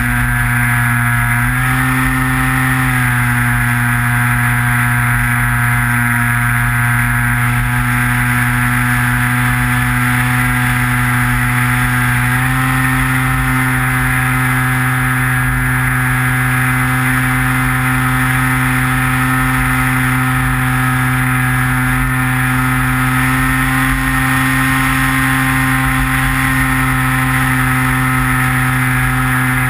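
Electric motor and propeller of a Skywalker FPV model plane, recorded by the onboard camera, droning steadily in flight. The pitch steps up slightly a couple of times as the throttle changes.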